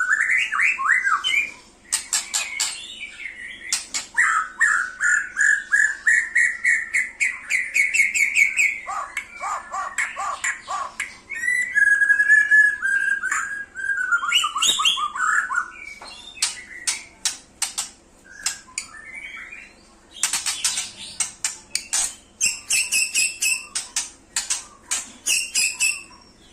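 White-rumped shama (murai batu) in full song: a long, varied song of clear whistled phrases that rise and fall, broken up by rapid runs of sharp chattering notes and quick high repeated notes.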